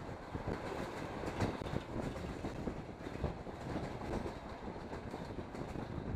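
Passenger train running along the line, its wheels clattering over the rails with a stream of irregular clacks and rattles.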